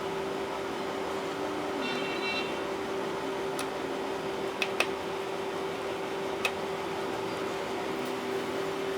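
Steady low hum and hiss, with a brief high-pitched tone about two seconds in and four small sharp clicks, two of them close together near the middle.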